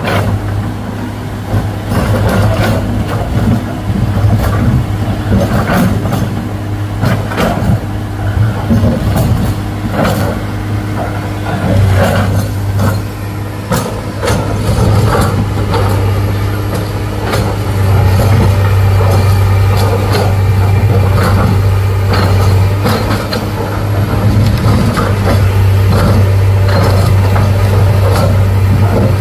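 Heavy diesel engine running under load with a steady low drone, getting louder and holding about two-thirds of the way through, with repeated metallic clanks and knocks over it.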